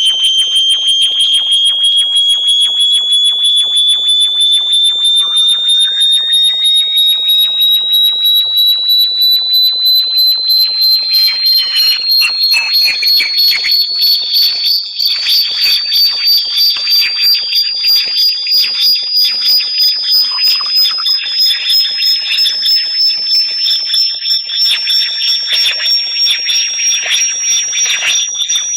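Electronic bat-repellent tone: a shrill, pulsing whistle that slowly rises in pitch, with fainter electronic tones gliding higher above it.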